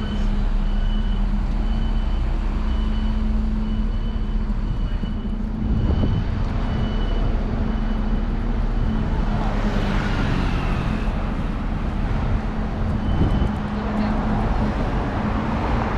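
Street traffic: a steady engine rumble from nearby vehicles, with one passing louder about ten seconds in.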